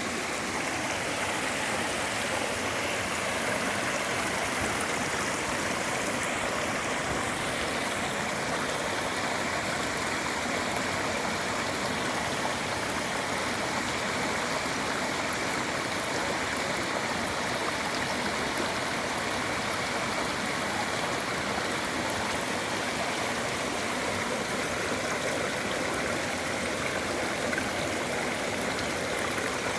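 Clear mountain stream water flowing steadily, an even, unbroken rush of water.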